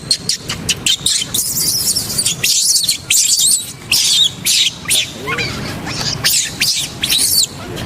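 A monkey's loud, high-pitched squealing calls, repeated many times with bending pitch.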